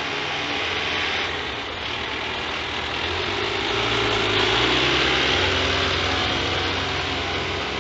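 Scania G410 truck's diesel engine running, its note stepping up and growing louder around the middle, then easing off slightly.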